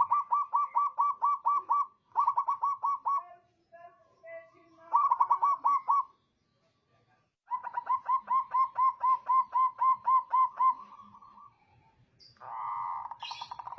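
Zebra dove (perkutut) singing: four runs of fast, evenly spaced short cooing notes, roughly nine a second. Near the end comes a brief, rougher sound.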